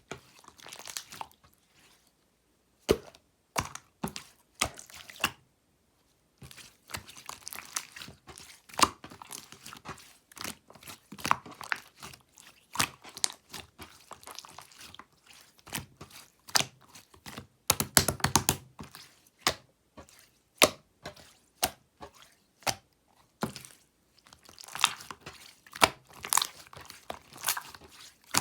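Slime being worked by hand, giving an irregular run of sticky clicks, pops and crackles, some much louder than others, with two short pauses in the first six seconds.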